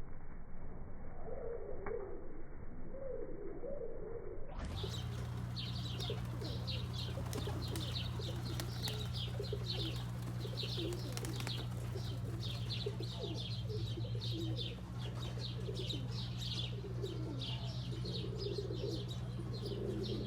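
Roller pigeons cooing again and again. From about four and a half seconds in, a steady low hum and rapid, high chirping sound with the cooing.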